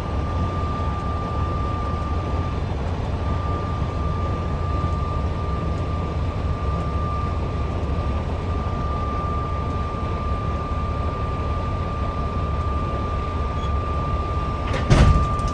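Semi truck's diesel engine running at a low, steady rumble while the tractor reverses under a trailer, with a thin, steady high whine throughout. Near the end comes one loud, sharp clunk as the fifth wheel couples onto the trailer's kingpin.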